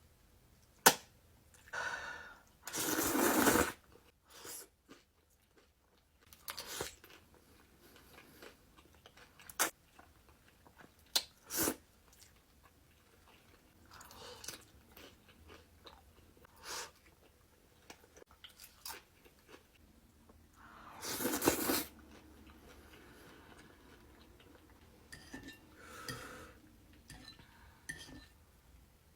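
Close-miked eating: crunchy bites and chewing, with scattered sharp crunches and two longer, louder crunching bursts, one about three seconds in and one about twenty-one seconds in.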